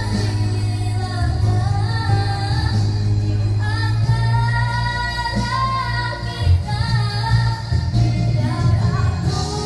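A female voice singing a melody over backing music with a steady, heavy bass.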